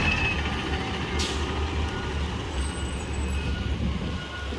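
Garbage truck diesel engines running with a steady low rumble, with a short hiss of air about a second in and faint, scattered beeps.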